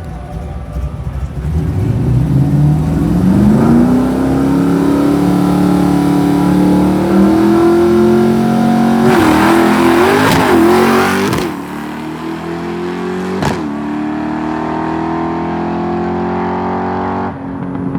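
Drag car's engine accelerating hard down the strip, its pitch climbing over the first few seconds and then holding high and steady. It fades noticeably a little past halfway. There is a rush of noise with a few knocks shortly before the fade.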